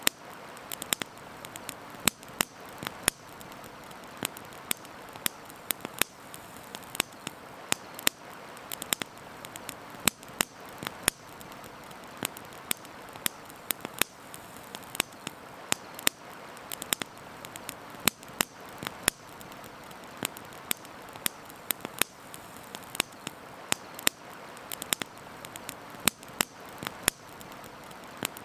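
Campfire crackling, with sharp irregular pops several times a second over a steady rushing hiss of river water.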